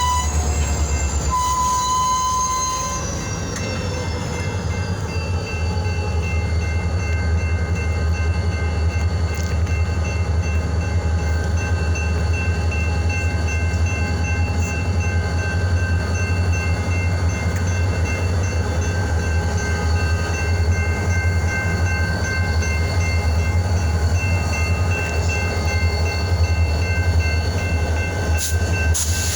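Freight train running past: a steady deep rumble with several high, steady whining tones riding above it. In the first few seconds a couple of high tones glide down in pitch.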